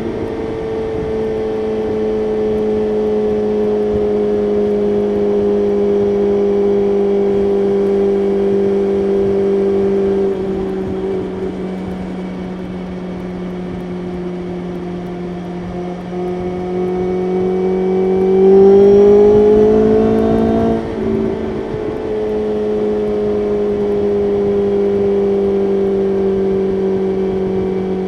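BMW S1000RR inline-four engine running at highway speed under a steady rush of wind. Its note sags slowly, drops back about ten seconds in, then rises sharply on hard acceleration to its loudest about two-thirds through. A short break in the note marks a gear change, and the engine settles back to a steady cruise.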